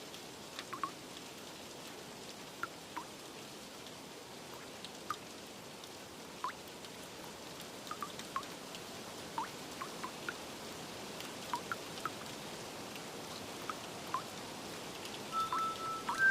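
Steady rain hiss with scattered single water drops plinking, irregularly, a few times a second at most. Near the end, soft chime-like music notes begin.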